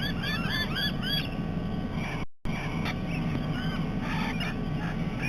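A flock of parrots calling: a quick run of arched, chirping notes, about four a second, then scattered calls, over a steady low hum. The sound cuts out completely for a moment a little past two seconds in.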